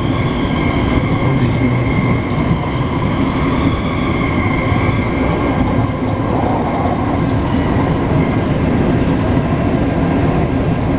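Taipei Metro C381 train running between stations: steady wheel and track rumble with a faint whine from the traction motors and inverters.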